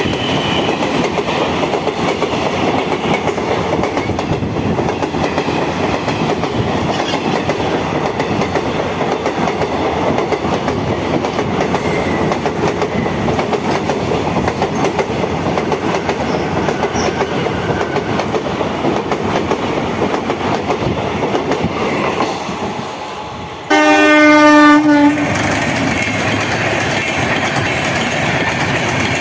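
Indian Railways passenger train running past, its coaches clattering steadily on the rails. About 24 seconds in, a locomotive horn sounds loudly for just over a second, then the running noise goes on.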